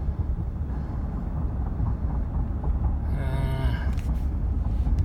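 Steady low rumble of a pickup truck's cab as it slows for a stop. About three seconds in comes a short, low, moo-like droning tone lasting under a second.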